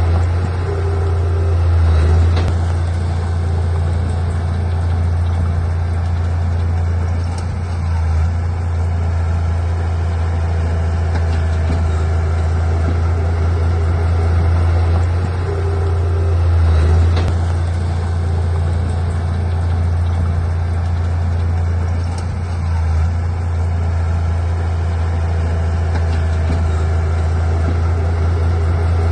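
Heavy diesel engine of a bulldozer running steadily, its sound swelling and easing a little every several seconds.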